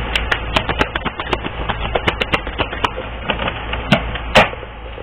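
A deck of reading cards being shuffled and handled, giving a run of quick, irregular sharp clicks and snaps, a louder cluster of them near the end, over a steady low hum.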